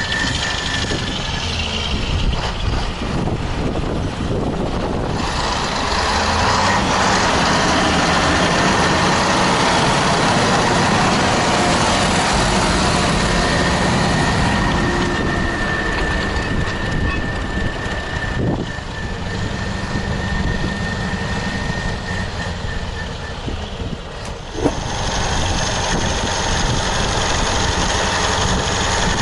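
Heavy wheeled farm tractor's diesel engine running steadily, with a thin high tone coming and going over it and one sharp knock about 25 seconds in.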